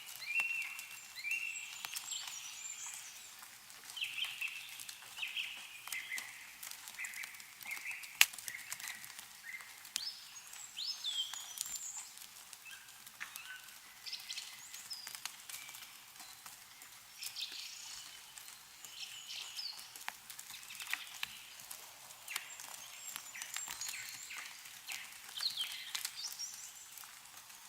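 Songbirds chirping and trilling in short phrases, with scattered drips and taps of melting snow falling from trees; one sharp tap about eight seconds in stands out.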